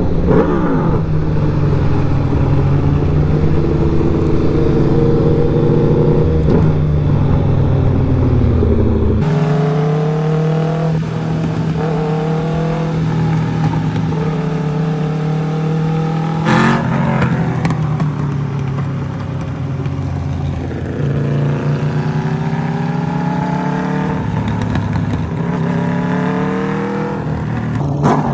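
Straight-piped Aprilia RSV4 V4 engine pulling through the gears in traffic. Its pitch rises and falls back again and again as it accelerates, shifts and rolls off, with short stretches of steady running.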